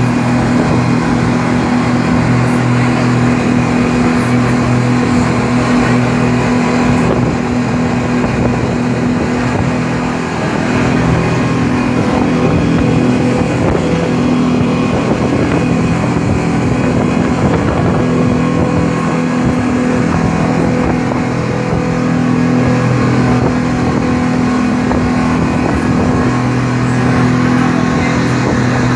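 An engine running at a steady speed, a constant hum under a rushing noise.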